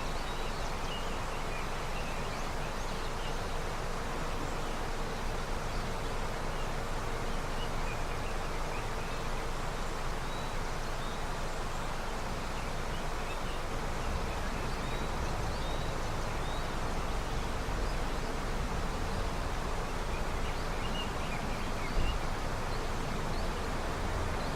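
Steady rushing of a river running with snowmelt, with small bird chirps now and then, some low rumbling in the second half and a brief thump near the end.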